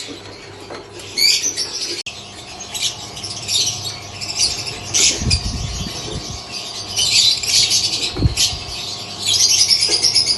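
Lovebirds chattering in a run of shrill chirps and squawks, with two low thumps about five and eight seconds in.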